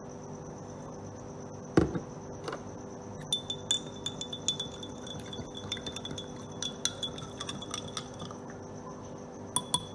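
A spoon stirring in a glass of red cabbage indicator, clinking rapidly against the glass for several seconds while the glass rings, after a single knock about two seconds in. This is sodium carbonate being mixed into the indicator. Two more clinks come near the end, over a faint steady hum.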